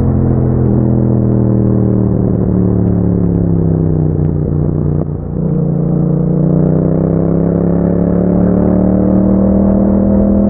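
Yamaha MT-07's parallel-twin engine running through an Akrapovič exhaust while riding. The revs fall steadily for about four seconds, the sound dips briefly about five seconds in, and then the revs climb slowly again.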